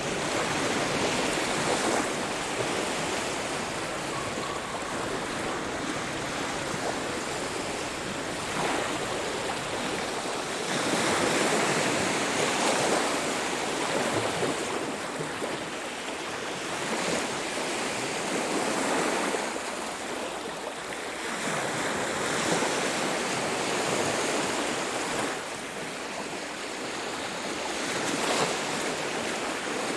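Ocean surf on a beach: waves breaking and washing in, a steady rush that swells and fades every few seconds.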